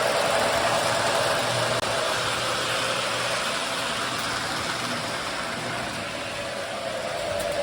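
Lionel O-gauge toy train running around a track loop: a steady motor hum and wheel rumble on the rails, easing off slightly and growing louder again near the end.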